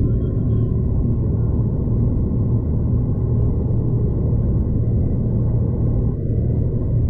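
Steady low rumble of a V/Line passenger train in motion, heard from inside the carriage.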